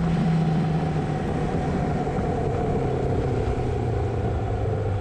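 Motorcycle engine running as the bike pulls away, its note stepping down about two seconds in at a gear change. The rider says just afterwards that he missed second gear. Wind and road noise rush over the helmet microphone.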